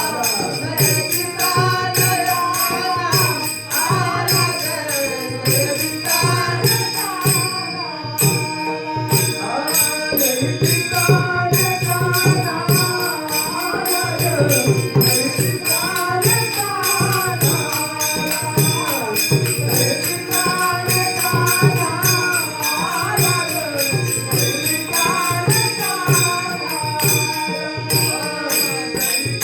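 Marathi Varkari devotional bhajan: a male singer's voice glides through long, ornamented phrases over the fast, steady clashing of small hand cymbals (taal).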